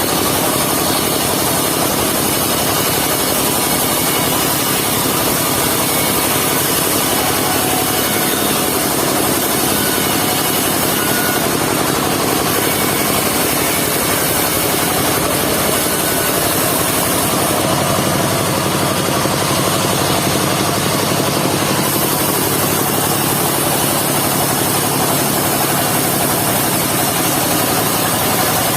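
Engine of a mobile circular-saw sawmill running steadily while the saw works through log timber.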